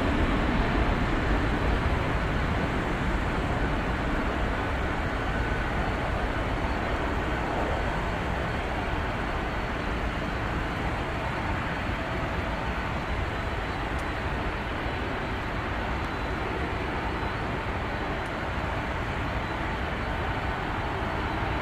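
Jet airliner engine noise: a steady rushing sound that eases slightly over the first several seconds and then holds, with a faint thin high tone.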